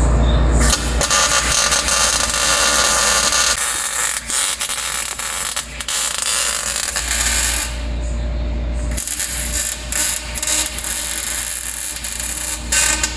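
MIG welder crackling and hissing as it welds thin sheet metal, stopping for about a second about two-thirds of the way through before it starts again.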